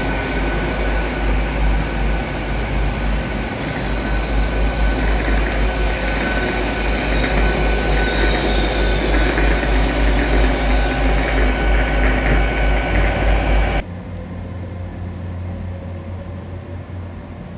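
Passenger train moving past the platform: a steady low rumble with a thin squeal of wheels on the rails. About fourteen seconds in the sound cuts off abruptly and gives way to a quieter steady low hum.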